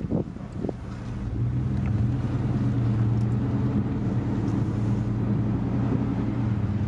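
Car engine and road noise heard from inside a moving car. The engine's steady drone grows louder about a second in, then holds.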